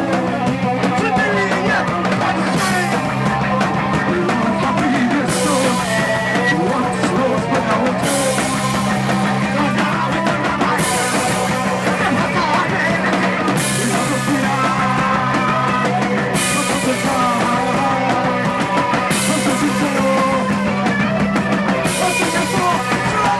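A rock band playing live, punk-leaning: held low bass and guitar notes under drums, with cymbal washes that come in for two or three seconds at a time and drop out again, over and over.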